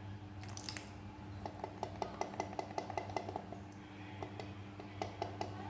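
A spoon clinking and scraping against cookware as chilli paste is added and stirred into the chicken: a quick run of light, ringing clinks, about four or five a second, through the middle, over a low steady hum.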